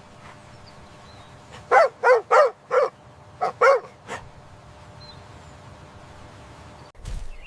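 An animal barking: four quick barks, then two more and a fainter one, over a quiet steady background.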